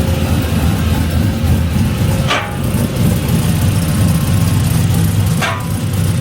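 LS V8 swapped into a 1988 Ford Bronco, idling roughly through its new true dual stainless exhaust with a deep, uneven rumble; the owners say it is running rich and 'not happy' on its current tune. A short sharp chirp cuts in twice.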